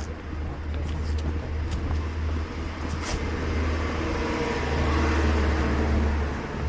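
Road traffic over a steady low rumble: a motor vehicle's noise swells in the second half and eases near the end.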